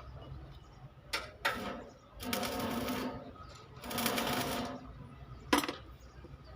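Two short bursts of a rapidly chattering power tool, each under a second, with single sharp knocks before and after, in a truck body-repair job.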